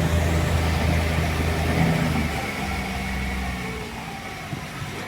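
Boat's engine running with a steady low drone, easing down a little about two seconds in and again later.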